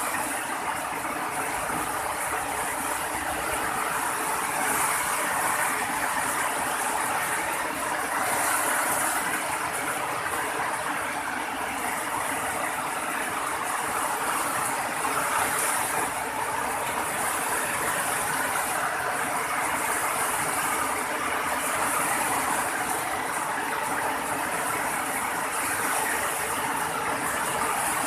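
Steady rainfall, a continuous hiss that swells and eases a little every few seconds.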